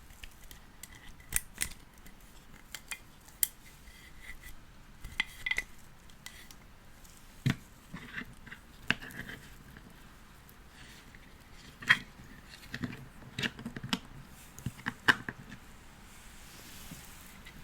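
Irregular light clicks and taps of small hard plastic pieces being handled, with a few sharper single clicks and faint rustling between them.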